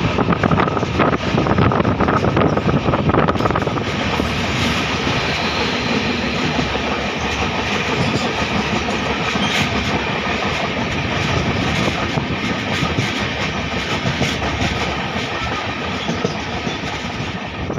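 Moving passenger train heard from on board: wheels clattering over the rails and a steady rushing running noise. The clatter is densest for the first three or four seconds, then settles into a smoother rush.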